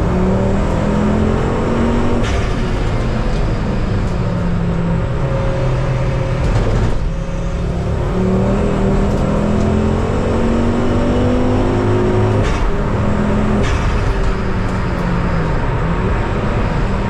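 Ford Focus ST race car engine under hard acceleration, heard on board: the revs climb and drop back again and again with the gear changes, with a short lift off the throttle about seven seconds in.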